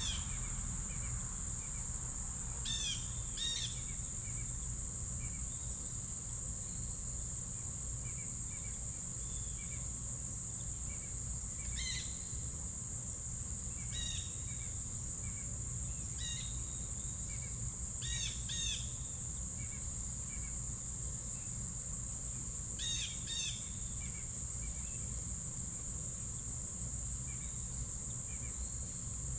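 Steady, high-pitched chorus of insects, with short clusters of bird call notes breaking in a few seconds in and several more times after.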